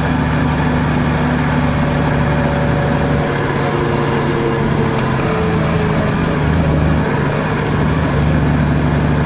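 Car engine running with road noise while driving; the engine note changes about three seconds in and returns to its earlier sound near the end.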